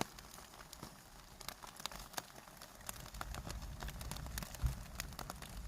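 Foil-wrapped hobo dinners of ground beef, potatoes and onions sizzling on a campfire: faint, irregular little crackles and pops over a low hiss, more frequent after the first second or so.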